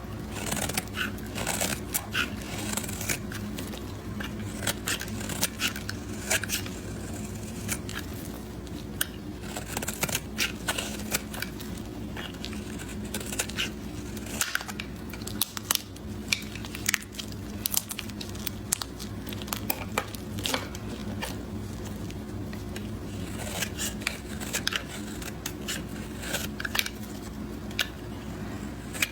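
Blade cutting through dry bar soap into cubes: a steady run of crisp crackling and snapping, with many sharp irregular clicks as the soap breaks apart.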